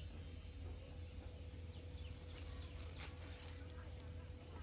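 Crickets chirring in a steady high-pitched drone, over a low background hum.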